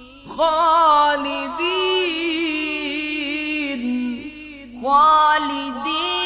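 Quran recitation in melodic tajweed style: a single voice holding long, ornamented notes with a wavering pitch. It pauses briefly for breath just before the five-second mark, then starts a new phrase.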